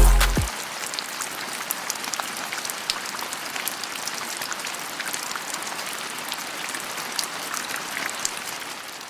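Steady rain pattering on surfaces, an even hiss dotted with many small drop ticks.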